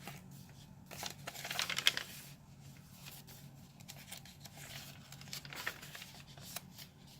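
Paper rustling and crinkling as the pages and cards of a handmade paper journal are handled and turned, with a louder stretch of crackly rustling about a second in.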